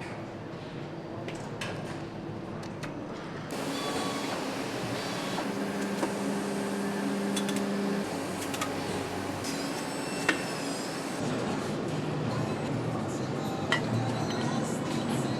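Factory floor sound: a steady hum of machinery with scattered sharp metallic clicks and knocks. The background changes abruptly about three and a half seconds in and again near eleven seconds.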